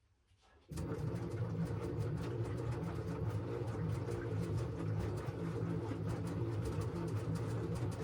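LG washing machine running its wash: after a near-silent pause, the sound returns suddenly under a second in as a steady motor hum with a fast, busy patter of clicks and sloshing from the tumbling drum.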